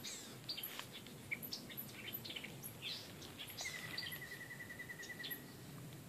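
Wild birds calling from thick riverside brush: a scatter of short chirps and very high ticks, with a fast, even trill of about a dozen repeated notes starting about halfway through.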